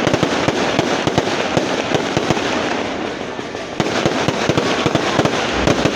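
Fireworks going off in a dense, unbroken barrage of rapid bangs and crackling pops.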